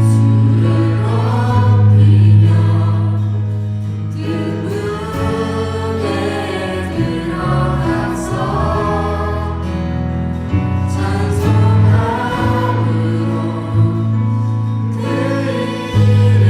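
Church praise band and singers performing a worship song: voices singing together over a band with a strong, steady bass.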